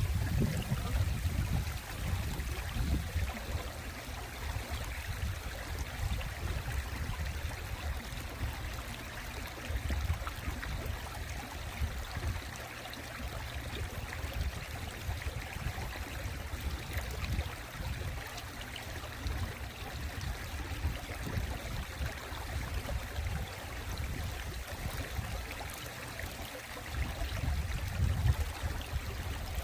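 Mountain stream water running steadily over rocks, an even rushing and trickling. A low rumble comes and goes underneath it, strongest near the start and near the end.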